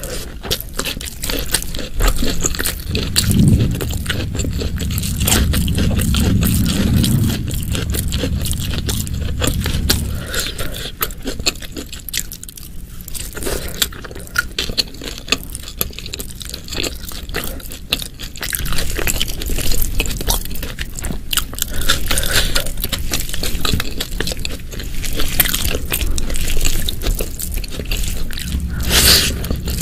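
Close-miked chewing of food, with many short, sharp mouth clicks, and a low rumble between about three and ten seconds in.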